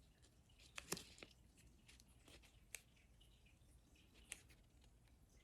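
Near silence, with a few faint clicks and crinkles of contact paper being handled; the most noticeable comes about a second in.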